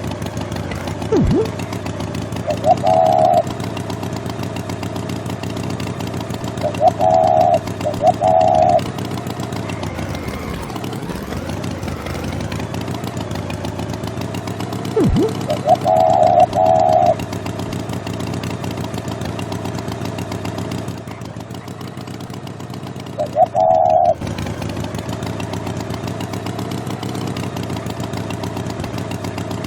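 A motor running steadily, with short high beeps that come singly or in pairs every few seconds.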